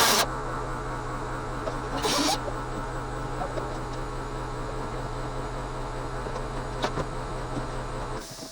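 Welder humming steadily between welds, with one short crackle of arc about two seconds in and a single click near seven seconds; the hum cuts off shortly before the end.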